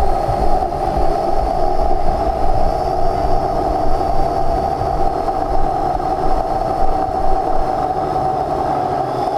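Parrot AR.Drone 2.0 quadcopter in flight: its four electric motors and propellers give a steady, even whine. There is low rumbling wind noise on the microphone.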